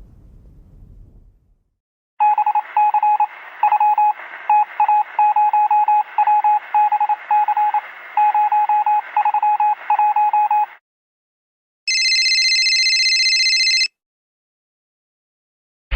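A series of electronic beeps of one tone, short and long in an irregular pattern over a steady hiss, for about eight seconds, followed by a steady high-pitched beep lasting about two seconds. The tail of a thunder rumble fades out at the start.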